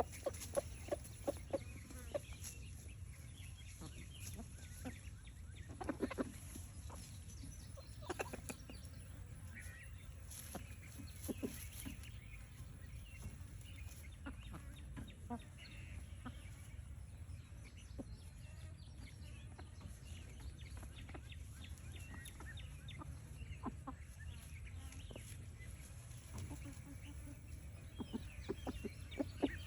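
Chickens clucking softly and on and off, in quick runs of short clucks with a few louder calls now and then, over a steady low rumble.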